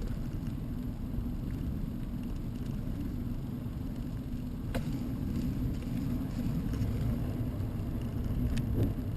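Headwind buffeting the microphone of a camera on a moving bicycle: a steady low rumble with no tones in it, with one sharp click about halfway through.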